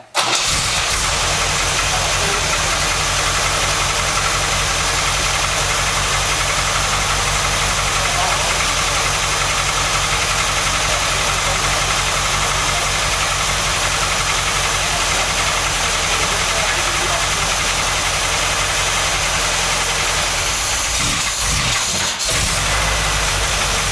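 MGB's four-cylinder B-series engine starting up and running steadily, its first run after a rebuild. It catches abruptly and holds an even idle, with a brief dip and change in speed near the end.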